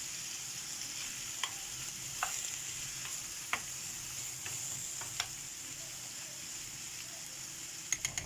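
Oil sizzling steadily in a clay tajine as carrots and spices sauté, with a few light clicks of utensils.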